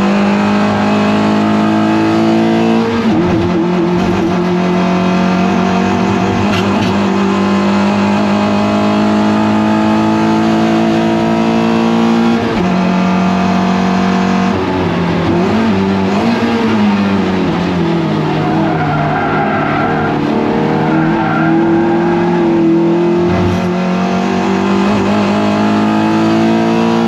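Toyota MR2 Roadster race car's engine running hard at high revs, loud and steady, its pitch dropping and climbing again several times as it shifts gear and slows and accelerates through corners.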